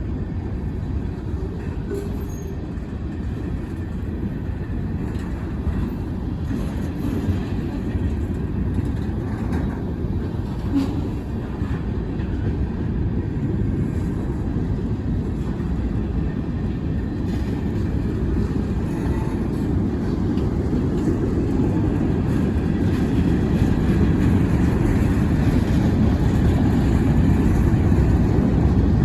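Wheeling and Lake Erie freight train rolling by, a steady low rumble that grows gradually louder.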